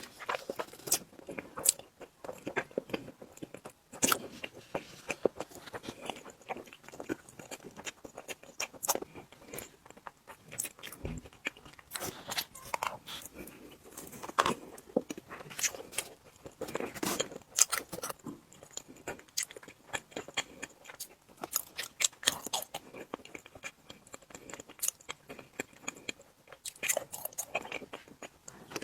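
Close-miked chewing and wet mouth sounds of someone eating tiramisu cake, a run of irregular short smacks and clicks.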